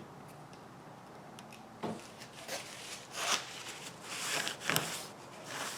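Hands working on plastic kayak fittings: a string of short rubbing and scraping noises with a few clicks, the sharpest click about five seconds in.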